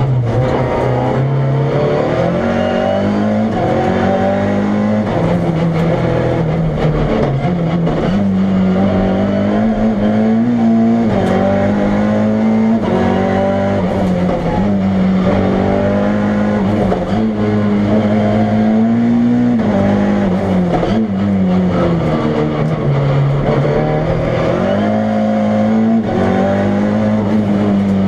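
Fiat Uno Turbo 1.4-litre turbocharged four-cylinder in a Fiat Punto Proto race car at full throttle. The engine note climbs and drops again and again as the car accelerates, shifts gear and brakes through a slalom course, loud throughout.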